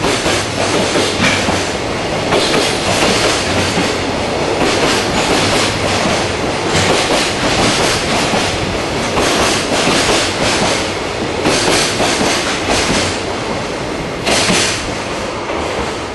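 Container freight train rolling past, its wagons' wheels clattering over the rail joints in repeated bursts every second or two. The noise eases off near the end.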